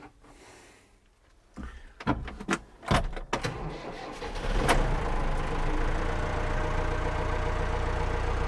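A few clunks and knocks as the tractor's cab door is handled and shut, then the International 695 tractor's diesel engine cranks and starts about three seconds in, settling into a steady run.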